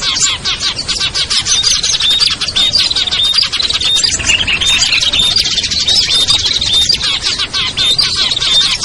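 Dense mixed chorus of small songbirds, many rapid high chirps and trills overlapping without a break. It is a bird-trapping lure track of noisy, agitated small-bird calls.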